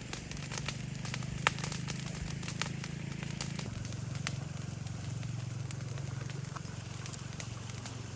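Wood fire crackling, with scattered sharp pops at irregular intervals over a low steady hum.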